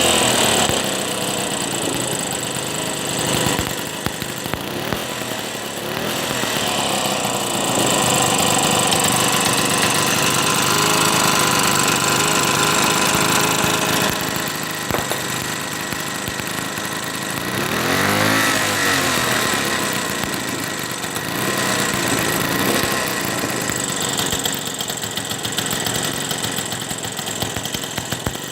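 Reconditioned small "3800" engine running, its speed swelling and easing, with one clear rev and drop about two-thirds of the way through.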